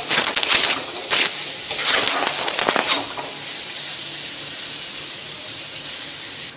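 Thin potato strips sizzling in a kadai on a medium flame, with a spatula scraping and tossing them through the pan for about the first three seconds. Then the sizzle runs on steadily alone.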